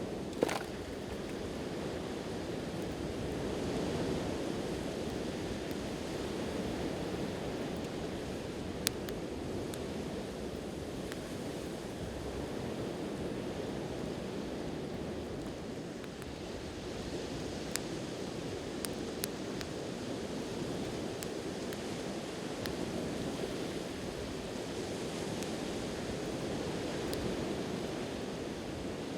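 Sea waves washing onto the shore, a steady rush that swells and eases, with a few sharp pops from a wood campfire, the loudest just after the start.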